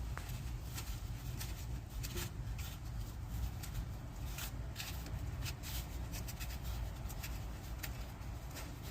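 Scattered small clicks, knocks and rustles of hands and tools working on a machine's control cable, over a steady low rumble.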